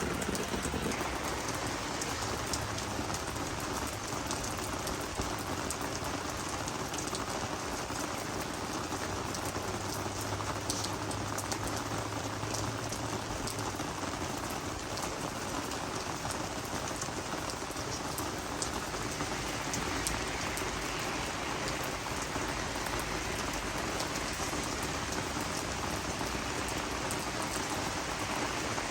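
Steady rain falling on garden vegetable and flower plants: an even hiss of rain with many separate drop ticks.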